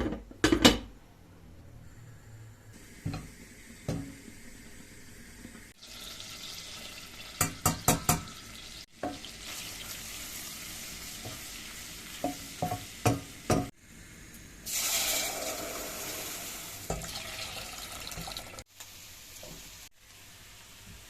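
Kitchen work: a string of sharp clinks and knocks of pots, dishes and utensils, including a quick run of four, with stretches of steady hiss, the loudest starting about fifteen seconds in.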